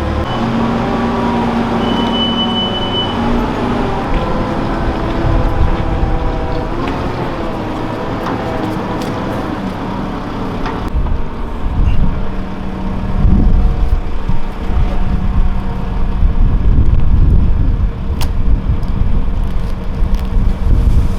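Farm machine engine running steadily, with a reversing beeper sounding about two seconds in. From about eleven seconds the sound turns into a heavier, uneven low rumble.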